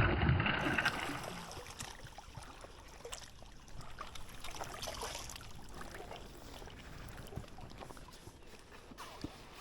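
Water splashing beside a kayak, loudest in the first second, then quieter trickling with scattered light knocks.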